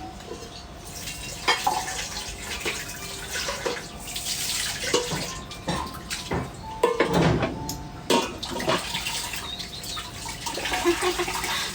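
A steady water-like hiss with scattered clinks and knocks of pots, pans and utensils.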